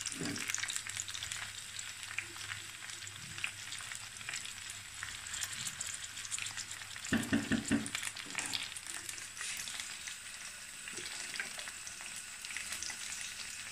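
Raw packaged fries sizzling and crackling steadily in hot oil in a wok, stirred with a spatula, with a few louder knocks about halfway through.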